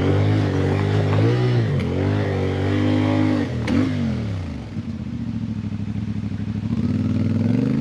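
CFMOTO Ibex 450's parallel-twin engine revving up and down under the rider's throttle, with one sharp click a little past halfway. It then settles to a lower, steady run before picking up again near the end.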